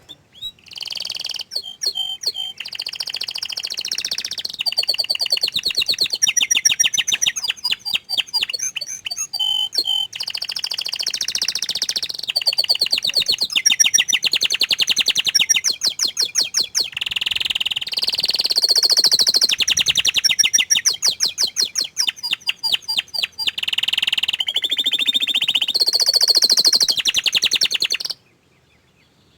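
Domestic canary singing one long, unbroken, high-pitched song of rapid trills and rolls. It stops abruptly near the end.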